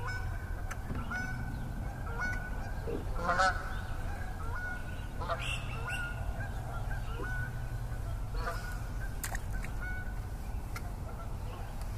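A bird calling over and over in short calls, about one a second, over a steady low hum, with a few faint clicks.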